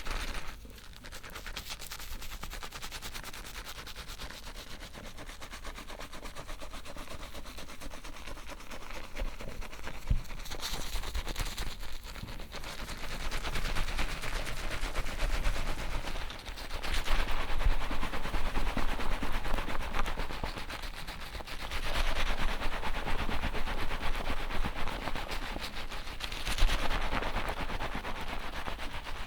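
Fingers scrubbing a lathered scalp during a hair shampoo, a dense, rapid crackling of foam and wet hair close to the microphone, growing louder in stretches through the second half.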